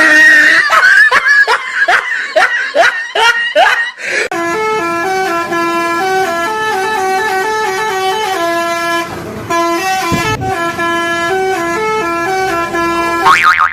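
A telolet musical bus horn playing a tune of held notes that step up and down, after about four seconds of quick rising pitch swoops.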